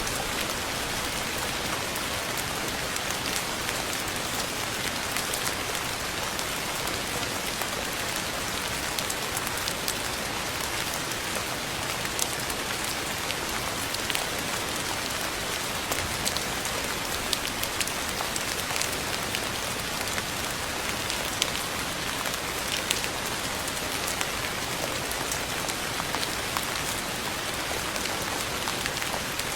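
Steady rain falling on a surface, a dense even hiss with many separate drops pattering and ticking through it.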